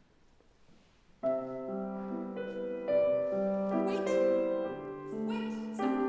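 Piano begins playing about a second in: a slow introduction of sustained chords, each ringing and fading as the next is struck.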